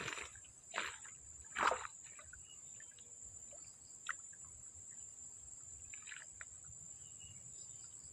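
Insects keep up a steady, high, continuous buzz. Two short noisy sounds come in the first two seconds, and a single click about four seconds in.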